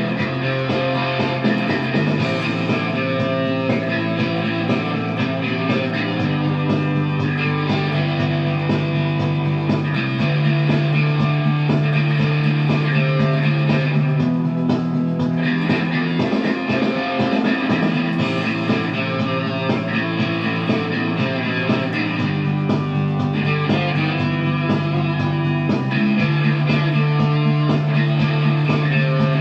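Electric guitar played along with a rock backing track, with steady bass notes that change every couple of seconds.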